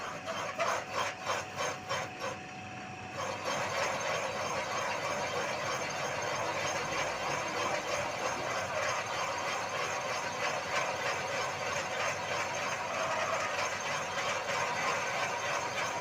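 Machine tool cutting metal while a motorcycle cylinder is machined for a new sleeve. It starts with a few rhythmic pulses, about three a second, then from about three seconds in becomes a steady cutting noise with a thin high whine.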